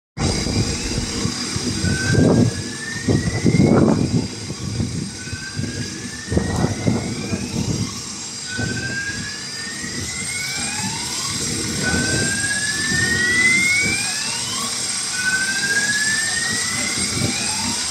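Low rumbling noise in uneven swells as a train approaches the station, with a rising whistle-like tone that repeats about every second and a half.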